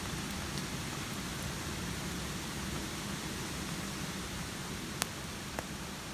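Steady hiss of rain falling, with two sharp pops about half a second apart near the end.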